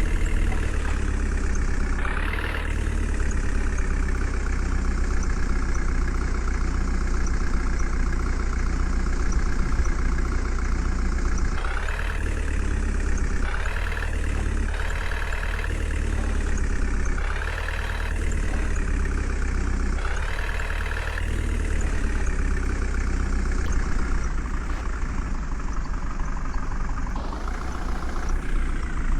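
Diesel engine of a JCB backhoe loader running steadily. Its revs rise and fall briefly several times, mostly in the middle of the stretch, as the machine works while filling a truck.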